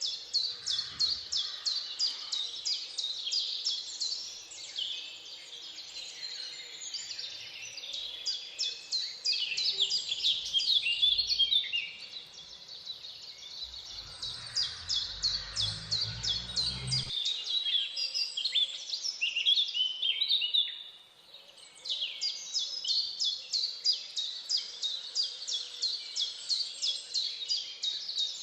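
Birds chirping in a dense chorus of rapid, evenly repeated high chirps. A low rumble comes in for a few seconds midway, and the chorus drops out briefly about 21 seconds in before resuming.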